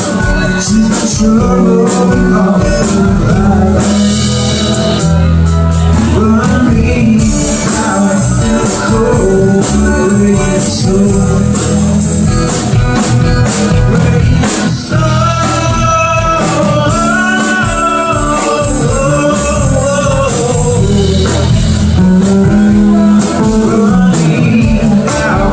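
Live rock band playing loudly, with drums, bass guitar and guitar; melodic lead lines bend up and down in pitch over a steady bass line.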